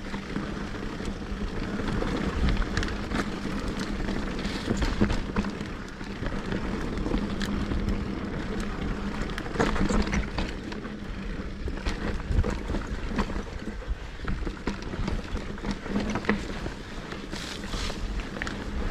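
Mountain bike riding over a dirt trail: tyre noise and wind buffeting the microphone, with frequent sharp knocks and rattles from the bike over the rough ground.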